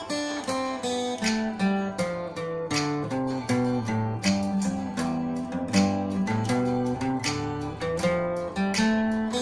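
Guitar playing a picked single-note practice exercise, one note after another at an even tempo.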